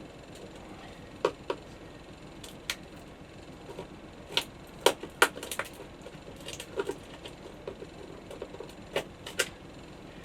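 Irregular sharp clicks and taps of hand tools on a small metal catch and its screws, which are sealed under layers of paint and varnish; about a dozen knocks are spread unevenly through the stretch.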